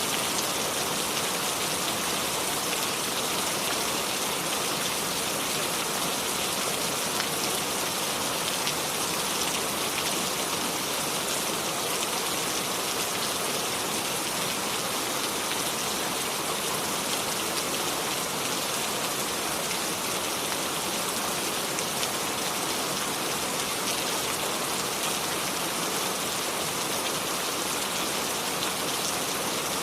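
Steady rain falling without thunder, an even hiss with fine drop patter that holds level throughout.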